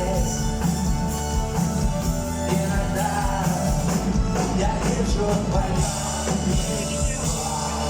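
Rock band playing live, with singing over a steady beat.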